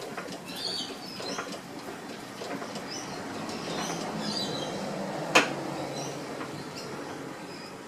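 Lister ST2 two-cylinder diesel engine being turned over by hand without starting, its crank and pistons spinning freely. The mechanical noise swells toward the middle, with one sharp click about five and a half seconds in.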